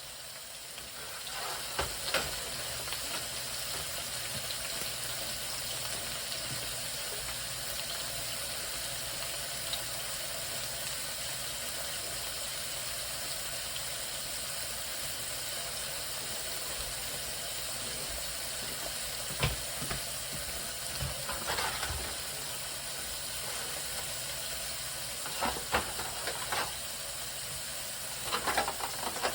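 Food frying in a pan: a steady sizzle, with a few short knocks and clinks of utensils or cookware, several of them near the end.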